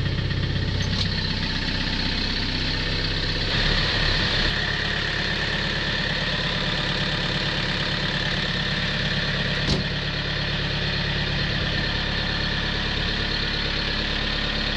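John Deere tractor engine idling steadily just after a cold start on a jump starter, warming up in freezing weather. The engine runs louder for about a second a few seconds in, and there is a single sharp click near the middle.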